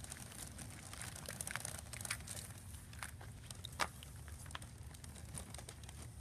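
Soft rustling with scattered light clicks, and one sharper click a little past the middle.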